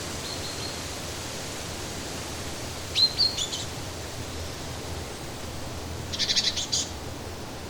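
Birds chirping over a steady rushing background: a short burst of high chirps about three seconds in, a faint one near the start, and a quick run of high notes near the end.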